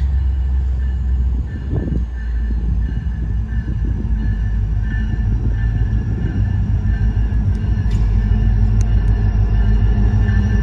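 Approaching train's diesel locomotive rumbling as it nears a grade crossing, growing steadily louder.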